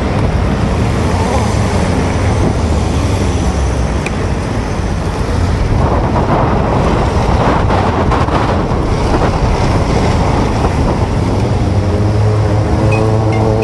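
Road and city traffic noise with wind buffeting the microphone, heard from a moving scooter. A steady pitched hum fades in near the end.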